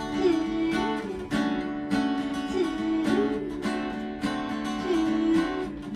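Acoustic guitar strummed in a steady rhythm, about two strokes a second, accompanying a song.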